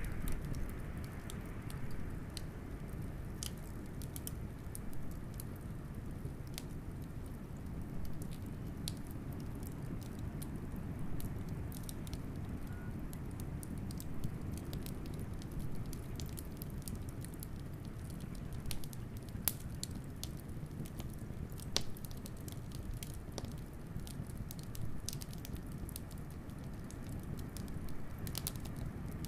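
Wood fire crackling with frequent sharp pops, over a steady low rumble of blizzard wind.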